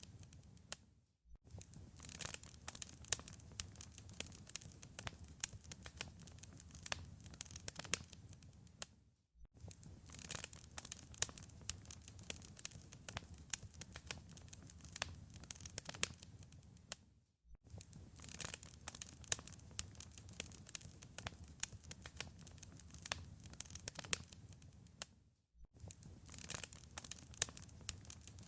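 Wood fire crackling in a fireplace: a dense run of sharp pops and snaps over a low, steady rustle of the flames, cut by a brief silence four times, about every eight seconds.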